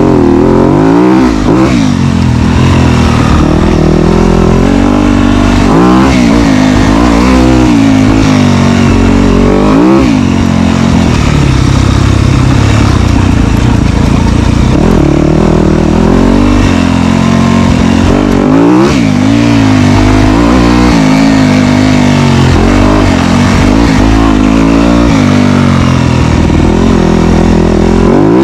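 Dirt bike engine revving, its pitch rising and falling again and again every few seconds as the throttle is worked on and off, loud throughout.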